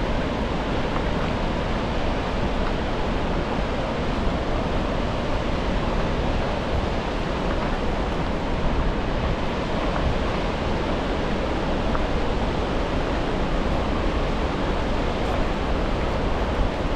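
Steady, unbroken rush of Gullfoss waterfall, the Hvítá River plunging into its canyon.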